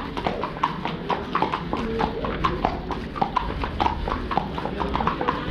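Two horses' hooves clip-clopping on a hard road surface, several overlapping strikes a second.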